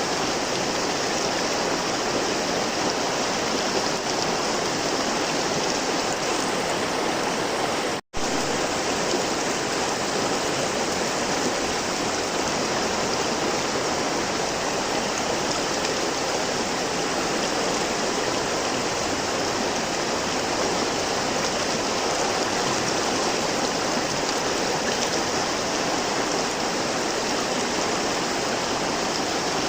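River water flowing steadily, an even rush of running water. The sound drops out for a split second about eight seconds in, then carries on unchanged.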